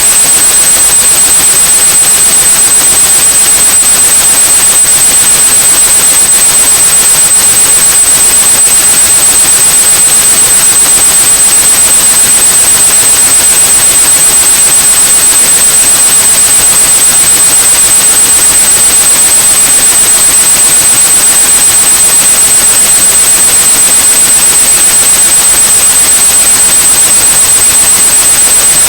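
White noise with a steady high-pitched tone near 8 kHz on top of it, both unchanging: a tinnitus-masking track built on an 8100 Hz tone.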